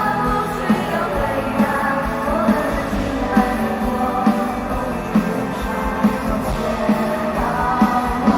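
Live pop-rock concert music: a woman singing over a full band, with a steady drum hit a little under once a second.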